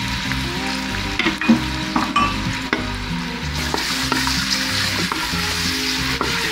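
Chopped spring onions sizzling as they fry in hot oil in a steel pot, stirred with a wooden spoon that knocks and scrapes against the pot a few times in the first half. Background music plays underneath.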